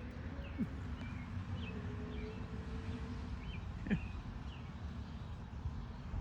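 Small birds giving short, faint chirps every second or so over a steady low outdoor rumble, with a couple of soft clicks.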